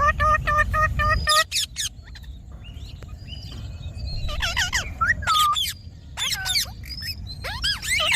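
Indian ringneck parakeet calling: a quick run of about half a dozen evenly spaced, pitched notes at the start, then several groups of high, swooping chirps.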